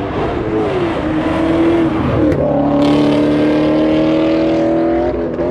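Car engine being revved hard: the pitch sinks, then climbs sharply about two seconds in and holds high for about three seconds before dropping away near the end.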